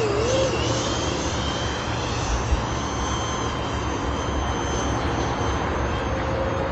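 Twin 70 mm electric ducted fans of a radio-controlled F-22 Raptor jet running steadily in flight: an even rushing whine with thin high tones and a low rumble underneath.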